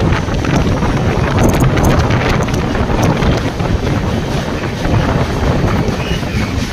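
Wind rushing over the microphone at the open door of a moving passenger train, over the train's steady running rumble, with another train running close alongside on the next track. A few sharp clicks come between about one and a half and three seconds in.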